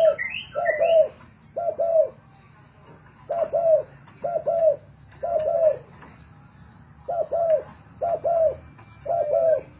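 Spotted dove cooing: low two-note coos repeated about once a second, in short runs broken by pauses of a second or so.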